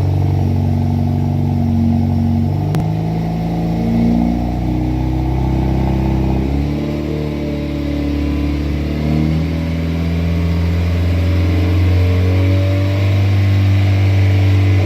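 Chevrolet Camaro engine running at idle through an exhaust with a newly fitted resonator, its pitch wavering up and down a little. The engine is being run on the lift to check the new resonator for exhaust leaks.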